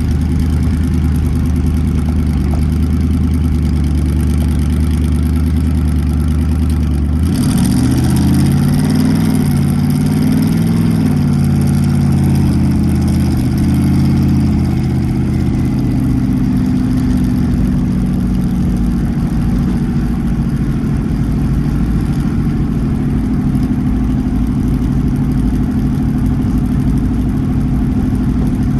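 Twin-turbocharged Ford 4.6-litre three-valve V8 running. About seven seconds in, the engine speed rises and wavers up and down for several seconds, then holds steady.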